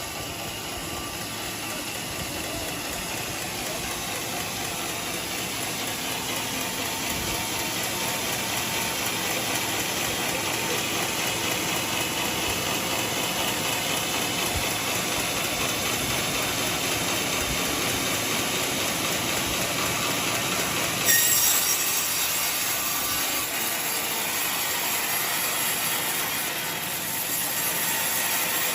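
Sawmill saw machinery running steadily with a dense mechanical noise and faint whining tones. About three quarters of the way through there is a sharp knock and the sound turns brighter and hissier.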